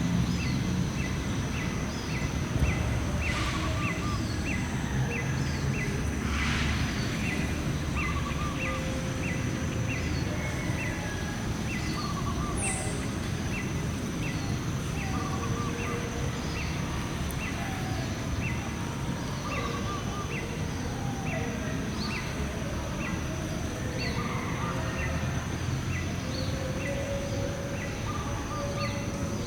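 Outdoor natural ambience: birds chirping, one repeating a short chirp about twice a second while others call now and then, over a steady high insect-like drone and a steady low rumbling noise.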